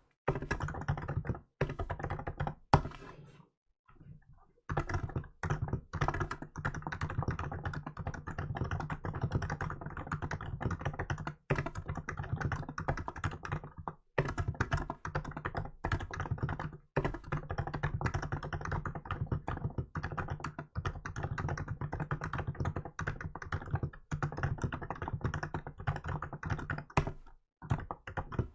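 Continuous typing on a Hansung GK868B electrostatic capacitive (Topre-style) keyboard with milk keycaps: a fast, even run of keystrokes broken by a few brief pauses. One sharp stroke, much louder than the rest, comes a little under three seconds in.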